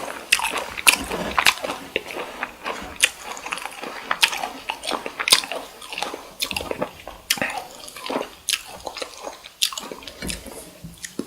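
Close-miked biting and chewing of cooked cocktail shrimp: a dense run of irregular sharp mouth clicks and smacks, with a louder bite or chew about every half second.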